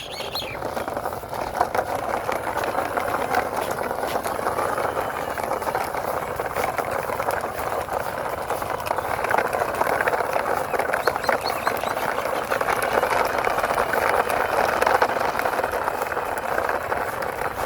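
Plastic toy backhoe being pushed along the ground, its wheels and body rattling and scraping steadily with many small clicks.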